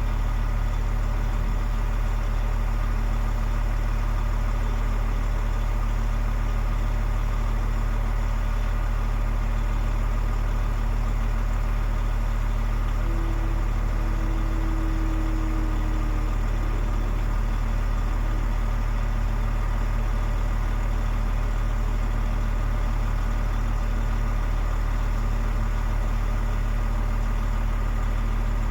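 DAF XF 105.460's 12.9-litre PACCAR MX straight-six diesel idling steadily.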